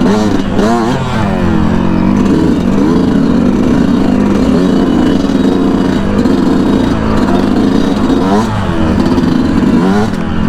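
Yamaha YZ125's single-cylinder two-stroke engine under way, with the revs swinging sharply up and down near the start and twice more near the end, and steadier running in between.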